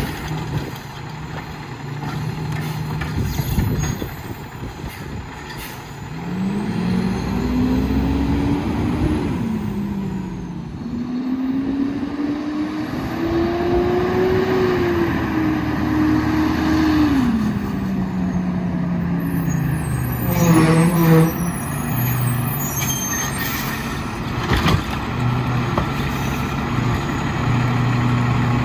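Autocar WXLL garbage truck's diesel engine idling, then revving up and holding higher for several seconds before dropping back to idle, as it drives the McNeilus Autoreach arm's hydraulics. A short burst of knocks and clatter comes about two-thirds of the way through.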